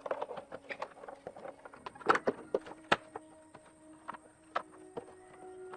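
Irregular clicks and knocks of tools and parts being handled during motorcycle repair work, loudest about two seconds in.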